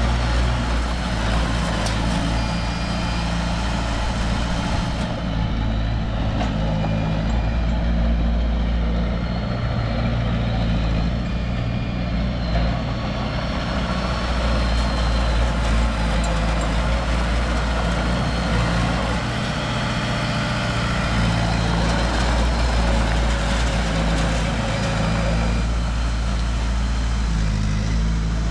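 Diesel engine of heavy earthmoving machinery running steadily, its deep pitch shifting up and down a little as it works.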